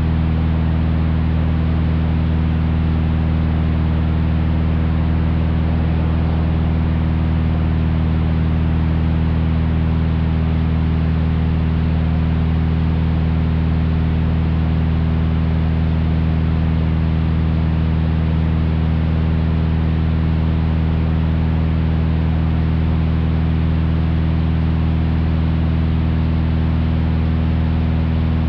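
1956 Cessna 172's Continental O-300 six-cylinder engine and propeller running steadily in flight, a constant even drone.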